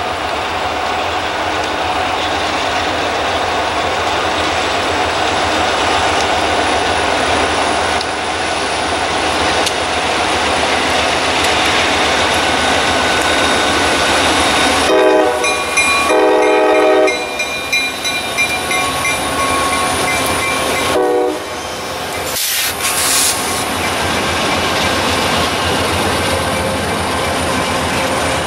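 Diesel freight train running past close by, led by a CSX locomotive with BNSF units trailing, its engines and wheels making a steady loud noise. The lead locomotive sounds its horn in two blasts of about a second each, about 15 seconds in, and a short third blast a few seconds later. After that the freight cars roll by with clicking wheels.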